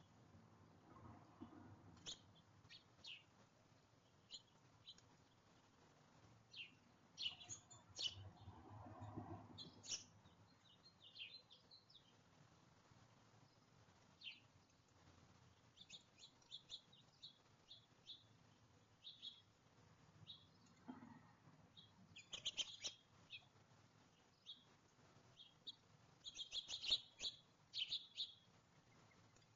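Birds chirping: short, high chirps scattered throughout, coming in quicker flurries about two-thirds of the way in and again near the end. A couple of faint, low, muffled sounds lie beneath the chirps early on.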